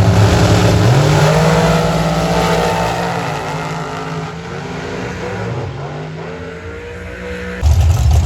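Drag race car accelerating down the strip, its engine pitch climbing, stepping down at gear changes and climbing again as the sound fades with distance. Near the end a louder, steadier engine sound cuts in suddenly.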